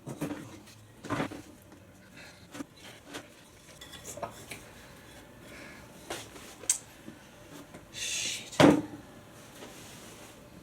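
Scattered metallic clinks and knocks of tools and the wheel rim being handled during a motorcycle tube and tyre change, with a scrape and the loudest knock near the end.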